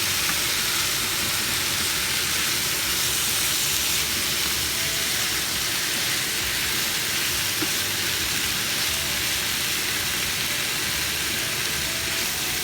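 Chicken, bell pepper and onion sizzling steadily in hot olive oil in a frying pan.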